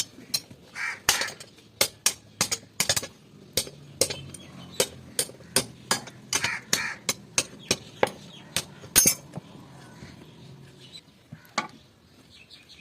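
Blacksmith's hand hammer striking steel on an anvil: a steady run of sharp metallic blows, about three a second, that stops about nine seconds in, then one more strike near the end.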